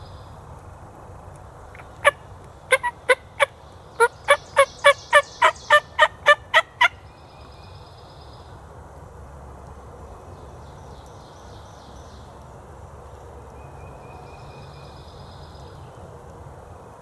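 Turkey yelping: one note about two seconds in, then a run of about fifteen evenly spaced yelps, about four a second, that stops suddenly near seven seconds in.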